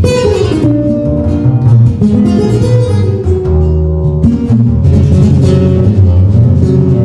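Live instrumental music from a small trio: plucked acoustic guitar notes over a deep, steady bass line.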